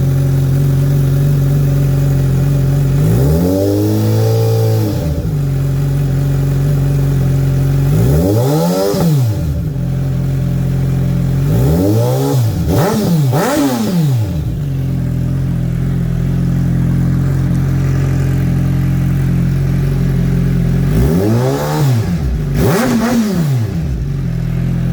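2022 Suzuki Hayabusa's 1340 cc inline-four idling through a Coffman's aftermarket exhaust with the baffles in. The throttle is blipped several times: one held rev a few seconds in, single blips near the middle, and two quick ones near the end, each time returning to a steady idle.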